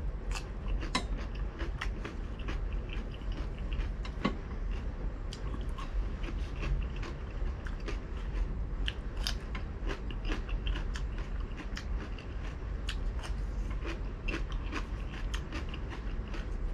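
Close-up chewing and biting of crispy fried pork belly, with many sharp irregular crunches over a steady low hum.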